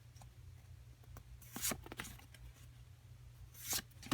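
Trading cards being handled and flipped, with a few short card flicks and slides about one and a half seconds in and near the end, the last a sharp click.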